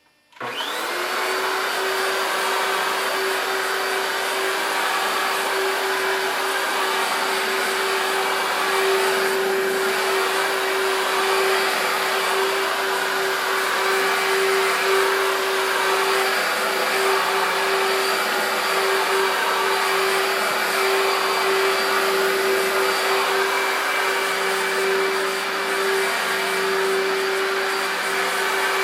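Electrolux Contour Z1501 upright vacuum cleaner switched on about half a second in, its 1300 W motor quickly spinning up with a rising whine, then running steadily with a constant hum and rush of air.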